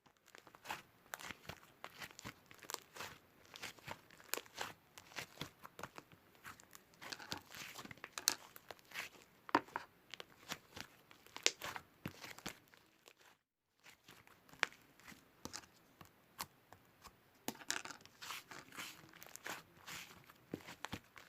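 Close, irregular crinkling and crunching clicks, like material being crumpled or torn, with a brief dead-silent break about thirteen seconds in.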